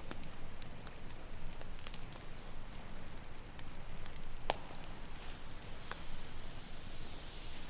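Campfire crackling, with scattered sharp pops, the loudest about four and a half seconds in, over a low rumble. A soft hiss of surf washing up swells near the end.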